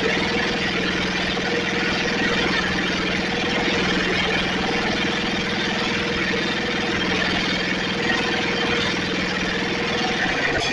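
Snapper riding mower's engine running steadily at a fast idle. Its pitch sags briefly near the end.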